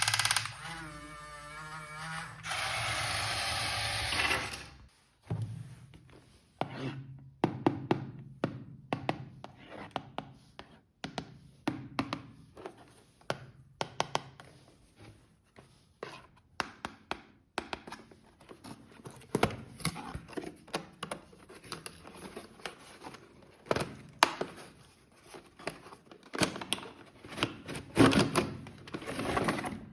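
Irregular clicks, taps and knocks of hard plastic toy parts being handled, after a few seconds of warbling electronic sound at the start.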